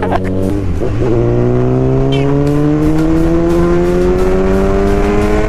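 Kawasaki Z900's inline-four engine under load, its note rising slowly and evenly for about four seconds as the bike accelerates, after a brief change in pitch about a second in.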